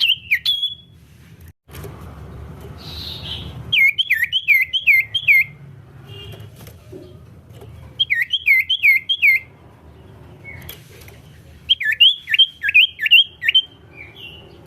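Common iora (cipow) singing bouts of about five quick, down-slurred whistled notes, repeated four times with short pauses between, over a low steady background hum.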